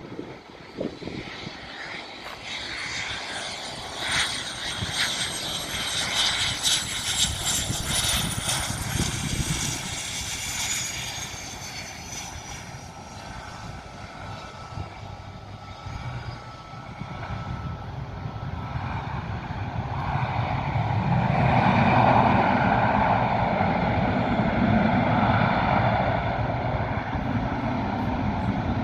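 Airplane engines passing: a high engine whine slides down in pitch over the first ten seconds or so, then a broad rushing engine roar swells up and peaks a little past twenty seconds.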